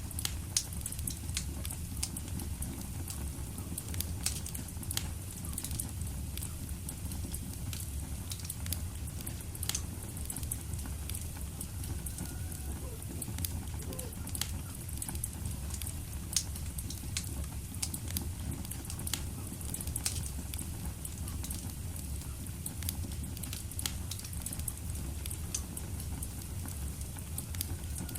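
Fireplace fire burning, with a steady low rumble of the flames and frequent irregular sharp crackles and pops.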